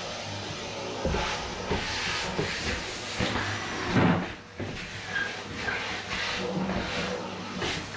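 Vacuum cleaner running, sucking up dust and debris through its hose, with a steady hiss and hum. Several sharp knocks and clatters sound over it, the loudest about four seconds in.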